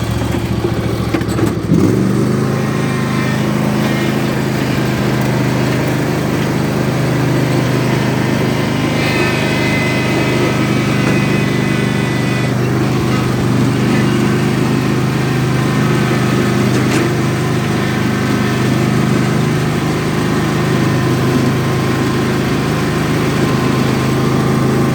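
Small riding lawn mower engine running steadily; its note shifts to a steady, even pitch about two seconds in.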